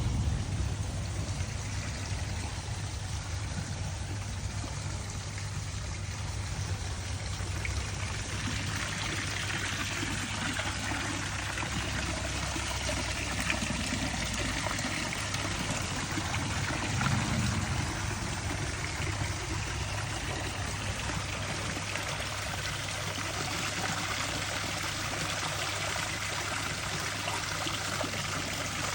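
Water steadily trickling and splashing down a small waterfall, with a steady low hum underneath.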